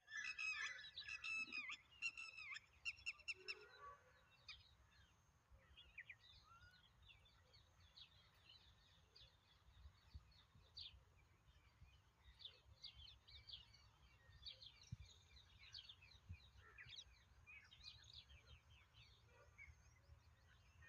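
Songbirds calling and chirping: a loud run of quick repeated calls in the first few seconds, then fainter scattered chirps and trills from several birds over a low background rumble.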